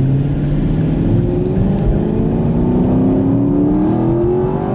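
2021 Camaro SS 1LE's 6.2-litre V8 engine pulling under acceleration, its note rising steadily in pitch through a gear.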